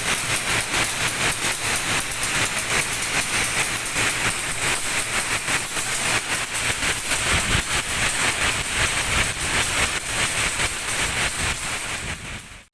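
Passenger train running on the rails: a loud, steady rushing noise with a dense fast rattle of wheels and carriage.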